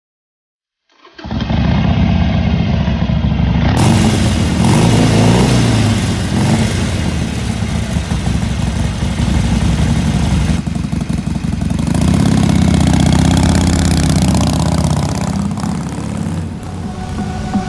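Harley-Davidson XL883N Iron 883's air-cooled V-twin running through Khrome Werks aftermarket mufflers. The sound comes in abruptly about a second in and stays loud, with its level dipping and swelling again about two-thirds of the way through.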